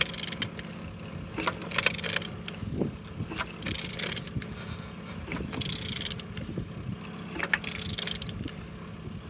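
Clicks and metallic scraping at irregular intervals as a used car engine is turned over by hand. The engine is turning freely, not seized.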